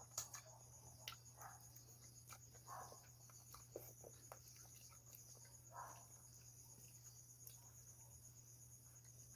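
Faint, steady cricket chirping over a low hum, with soft eating sounds: scattered small clicks and brief chewing or slurping noises.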